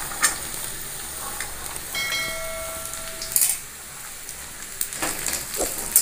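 Diced potatoes and cut yardlong beans frying in hot mustard oil in a steel kadhai: a steady sizzling hiss as the beans are tipped in, with a few sharp clicks of beans and spatula against the pan. A short steady tone sounds about two seconds in.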